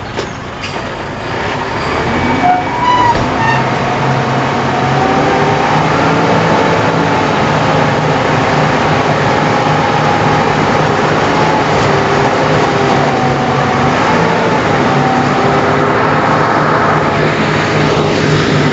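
Komatsu D31 bulldozer's diesel engine running steadily under load. It builds up over the first few seconds, with a few brief high squeals near the third second.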